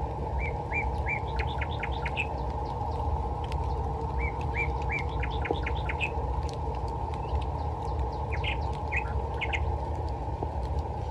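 A songbird sings the same phrase twice, about four seconds apart: a few short hooked notes, then a quick run of rising notes. Another burst of calls comes near the end, all over a steady low rumble.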